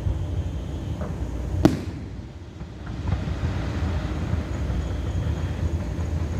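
Aerial fireworks going off at a distance: one sharp bang about a second and a half in, after a fainter pop, over a steady low rumble.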